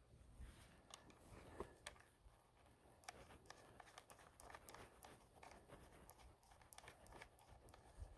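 Near silence, broken by faint, scattered clicks and taps of small parts being handled.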